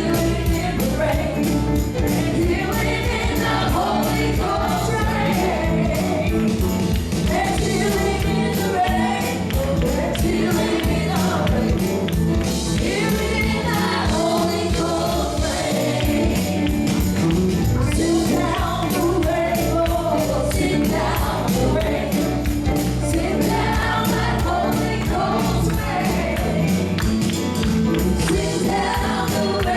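Upbeat gospel music, with a congregation or choir singing over a steady beat and a tambourine shaken in rhythm.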